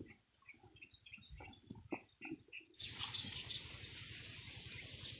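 Outdoor rural ambience with short bird chirps. About three seconds in, a steady high-pitched hiss starts suddenly and continues.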